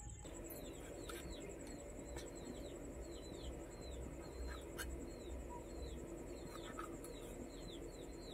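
A small bird chirping over and over in the background, short falling notes about two to three a second. A few faint clicks from capsicum being cut on a fixed curved blade come through now and then.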